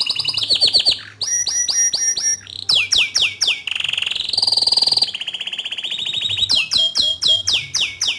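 Bottle-green canary singing a loud, continuous song of fast trills and repeated whistled notes that sweep downward, with a buzzier rolling stretch about halfway through. The song cuts off abruptly at the end.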